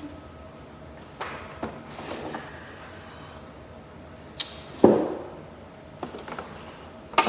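Packaging being handled during an unboxing: rustling, a sharp click about four and a half seconds in, then a thump, which is the loudest sound, and a few light knocks near the end.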